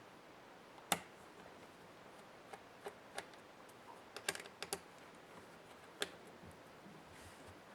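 Scattered sharp clicks and taps of a laptop's parts and small tools being handled during disassembly, about ten in all, with a quick run of them about four to five seconds in.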